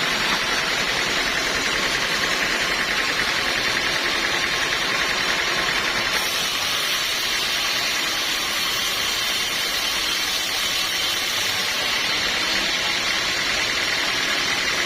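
Sawmill machinery running steadily, a dense even noise strongest in the upper range, which shifts slightly about six seconds in.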